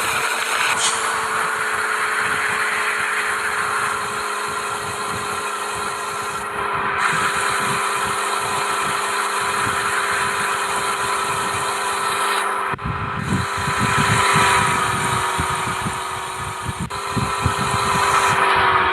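Mahindra Thar SUV driving, its engine running with a steady drone. The sound cuts sharply to a new stretch of driving a few times.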